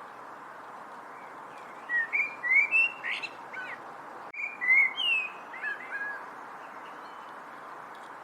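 A songbird singing two short phrases of quick, sliding whistled notes, a second apart, over a steady background hiss.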